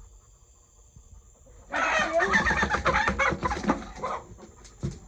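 A hen squawking loudly in alarm as she is grabbed, starting a little under two seconds in and dying down near the end.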